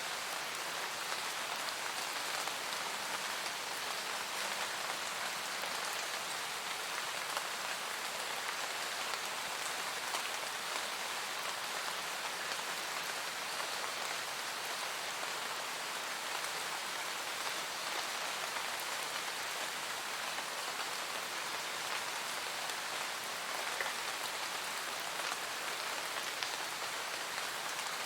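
Steady, calm rain falling: an even hiss of rain with faint scattered drop ticks.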